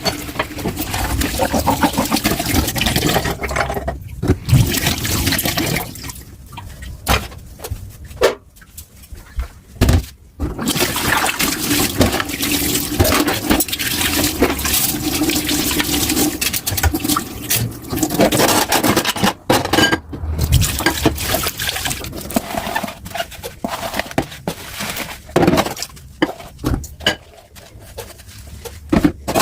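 Kitchen tap water running into a sink and splashing over dishes being rinsed, the stream broken up and dropping out briefly several times, with a few knocks of dishes.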